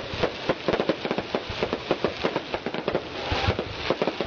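Aerial fireworks barrage: a rapid, unbroken string of shell bursts, several bangs a second, with a brief rushing crackle a little past three seconds in.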